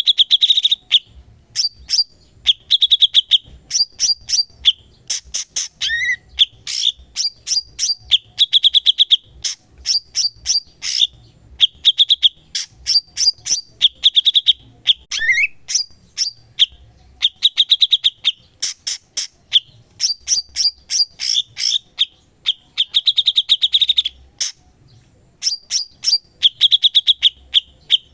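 Cucak cungkok songbird singing continuously, repeating short phrases of rapid high ticking notes and warbled notes about every second or two, with one brief pause near the end.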